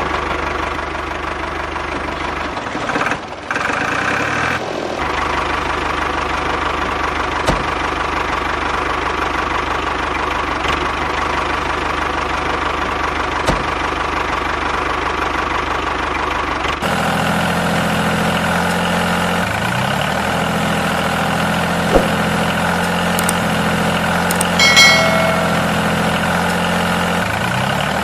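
Engine running steadily at idle with a knocking chug. Its sound changes abruptly about 17 seconds in, and there is a brief high-pitched tone near the end.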